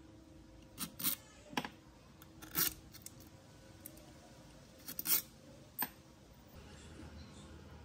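A run of short clicks and scrapes, about seven, irregularly spaced, the longest and loudest near a third of the way in and near two-thirds; typical of metal parts being handled and worked by hand on a workbench.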